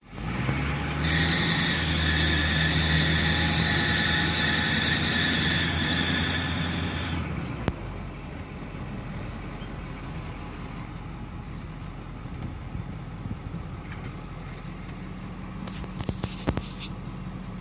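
2008 Ford 6.4 Powerstroke V8 diesel running with a loud, steady high-pitched squeal that cuts off about seven seconds in, leaving the engine running more quietly. The squeal's cause is unknown to the owner, as the belt and all pulleys were replaced 2,000 miles ago.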